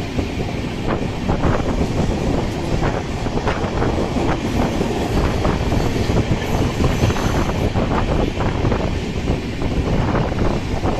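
Express passenger train running at speed, heard from on board: a steady loud rumble and rush with many short knocks of the wheels over the track.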